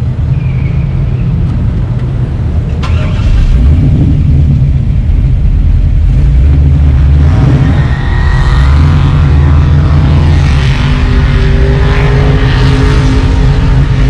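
Car engine running with a steady low rumble, growing louder about three and a half seconds in as the car pulls away and drives slowly.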